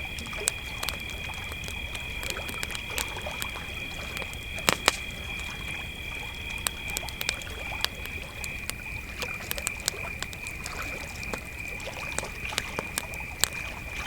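Crickets trilling steadily at a high, even pitch, with a second, higher cricket stopping about two-thirds of the way through. Over it, a campfire crackles with frequent sharp pops, two of the loudest close together about five seconds in.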